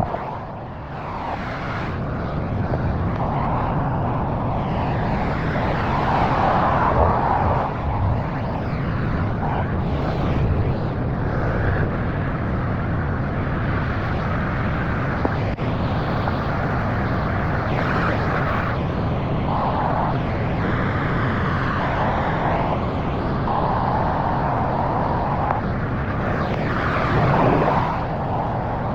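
Pressure washer running steadily, its engine hum under the hiss of the high-pressure spray, which grows and fades as the jet moves across the surface.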